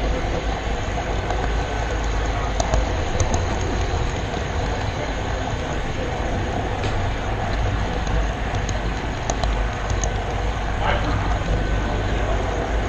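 Model railroad camera car rolling along the track, picked up by its onboard camera: a steady rumble from the wheels on the rails, with scattered small clicks.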